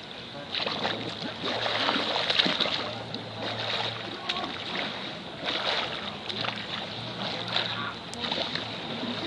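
Water splashing and sloshing in a swimming pool, with people's voices in the background.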